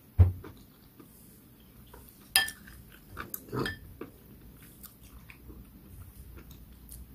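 A person chewing and eating grilled dried yellow croaker (gulbi) with small mouth noises. A low thump comes just at the start, and sharp clicks come about two and a half and three and a half seconds in, the first the loudest.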